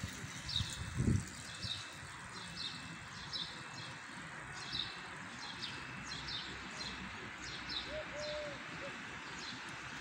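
Small birds chirping over and over, short high downward notes about one or two a second, over a steady hum of city background noise. A low thud sounds about a second in.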